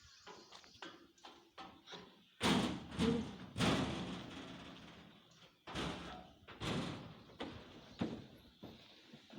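A run of quick light knocks and clicks, then five loud heavy thumps spread over several seconds, the first two fading out over about a second.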